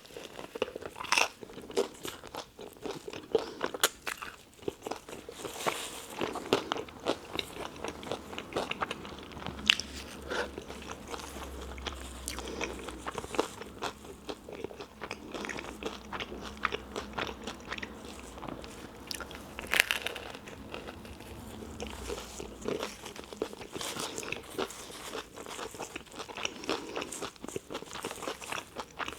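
A person biting into and chewing a toasted tuna melt sandwich close to the microphone, with crisp crunches from the toasted bread throughout.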